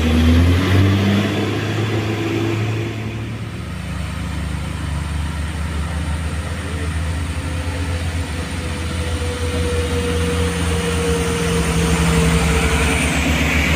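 Heavy diesel truck engine labouring up a steep climb: a deep, pulsing rumble whose pitch rises briefly at the start. A faint steady whine sits over the rumble in the second half.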